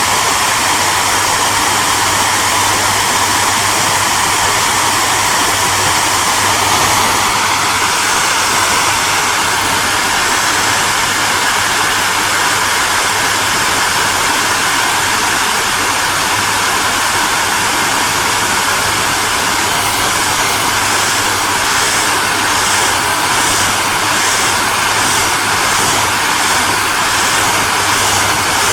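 Hair dryer running steadily: an even rushing blow of air over a low motor hum and a faint whine, which shifts slightly higher about seven seconds in.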